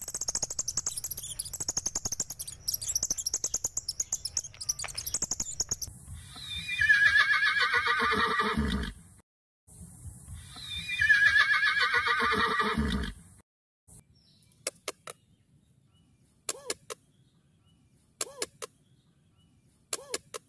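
A horse whinnying twice, each a long call that falls in pitch, after several seconds of dense high-pitched chirping. Faint short chirps follow near the end.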